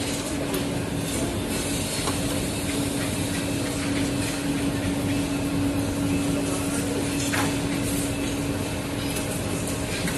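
Robotic laser welding cell running: a steady machine hum with a constant low tone under a broad noise, and a few faint clicks.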